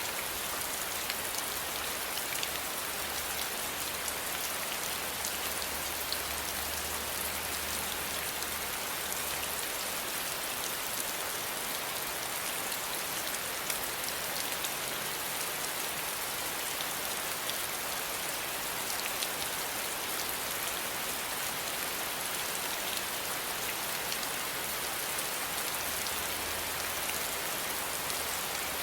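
Steady rain falling, an even hiss with many fine drop ticks and no let-up.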